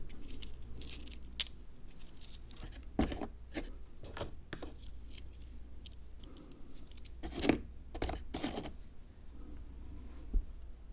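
Small handling sounds from work on a miniature Zen garden diorama: scattered clicks, taps and scrapes. There is a sharp click about a second and a half in, longer scrapes near three seconds and again around seven to eight seconds, and a soft thump near the end.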